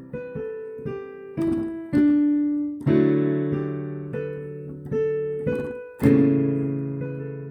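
Piano played at a slow pace: single melody notes and chords, each struck and left to ring and fade. Fuller chords with bass notes come about three seconds in and again around six seconds.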